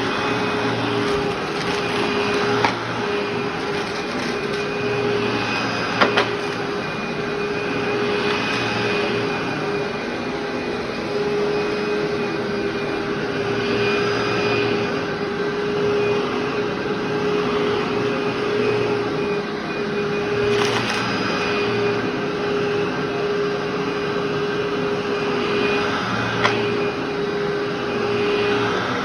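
Vacuum cleaner running steadily with a constant motor whine, its sound swelling and easing about every three seconds as it is pushed back and forth over carpet. A few sharp ticks are heard as crunchy debris is sucked up.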